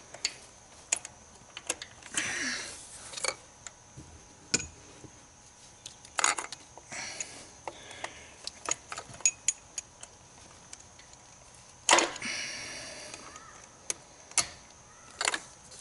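Socket wrench, extensions and metal parts clicking, knocking and scraping in a pickup's engine bay during spark-plug work on a 5.7L Hemi: irregular sharp clicks with a few short scraping rustles, the loudest knock about twelve seconds in.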